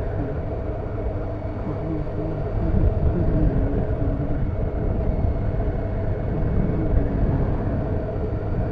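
Honda CBF motorcycle engine running on the move, its pitch rising and falling with the throttle, under a steady rush of wind noise on the camera microphone.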